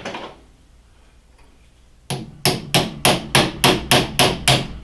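Hammer blows tapping a taper pin out of a lathe's under-drive assembly. After a short pause there is a run of about nine sharp metallic strikes, about three a second, getting slightly louder toward the end.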